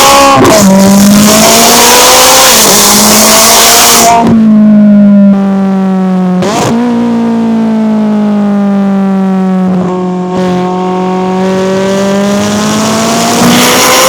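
McLaren 570S twin-turbo V8 exhaust running at moderate revs, its pitch slowly rising and falling, with a loud rushing hiss over it for the first few seconds. The sound changes abruptly several times.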